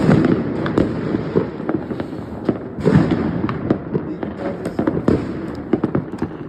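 Fireworks going off, a dense run of sharp cracks and bangs, with heavier booms at the start and about three seconds in.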